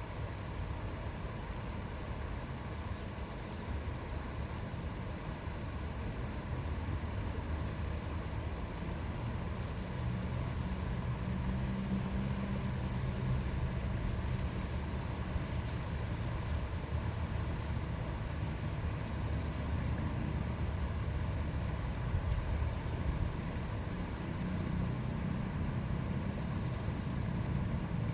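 River water flowing and babbling in a steady rush, heaviest in the low range, swelling slightly after about ten seconds.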